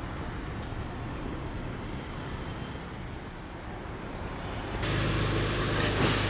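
A motor vehicle's engine running with a steady low rumble. About three-quarters of the way through, the sound jumps abruptly to a louder, brighter rumble with a steady low hum.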